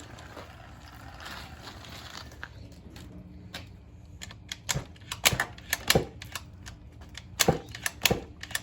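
Small two-stroke engine of a KTM 50SX dirt bike catching and sputtering, with sharp, irregular pops starting about halfway through.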